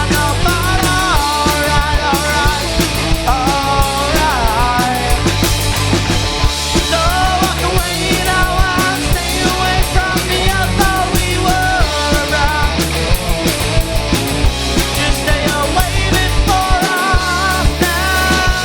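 Rock band playing a punk-rock song: driving drums, bass and electric guitars with a bending melodic lead line over the top.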